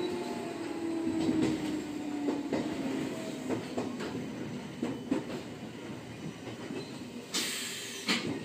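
Electric train running, heard from the driver's cab: a motor whine sliding down in pitch over the first few seconds, then wheels clicking over rail joints, and a short hiss near the end.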